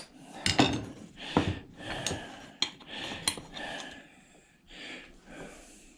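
Metal parts of a washing machine motor clinking, knocking and scraping as it is handled and pulled apart: several sharp clicks and knocks in the first half, quieter handling after.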